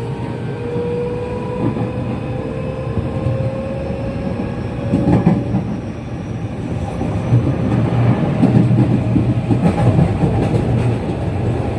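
Running noise inside a JR West 207 series electric train car, heard from the cabin: the original-type traction motors whine with tones rising slowly in pitch over a steady wheel-and-track rumble. About halfway through, louder clatter of wheels over rail joints comes in.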